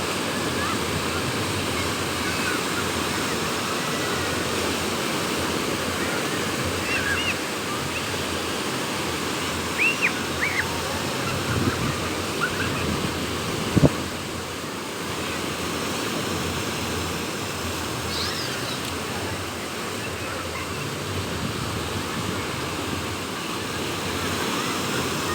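Sea waves breaking on the shore, a steady rushing surf mixed with wind. A few short high chirps are heard over it, and there is one sharp click about halfway through.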